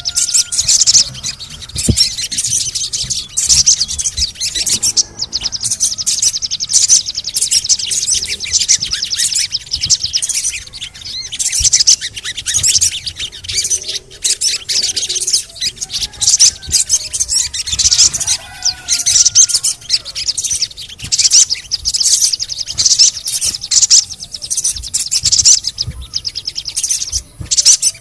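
Sogon (little spiderhunter) singing: a continuous, rapid, high-pitched chattering 'cret-cret' with interspersed 'cuit' call notes.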